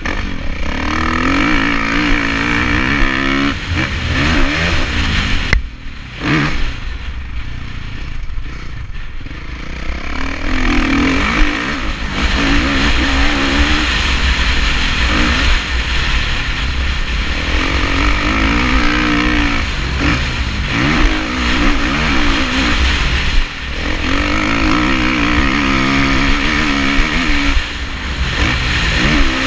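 Kawasaki KX450F's single-cylinder four-stroke engine revving up and backing off over and over while the bike is ridden on a dirt motocross track, over steady wind rush on a helmet-mounted microphone. About six seconds in the throttle is shut and the engine drops away for several seconds before it pulls again.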